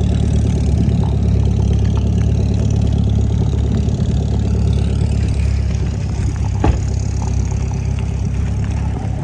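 Sports car engine idling steadily just after a cold start, with a brief knock about two-thirds of the way through.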